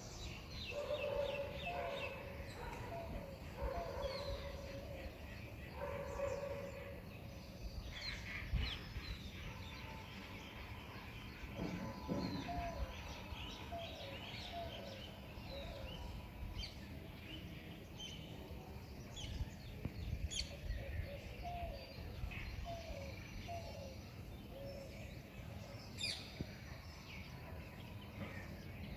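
Several birds calling and chirping in a morning chorus, short high chirps overlapping throughout, with a lower call repeated three times in the first several seconds.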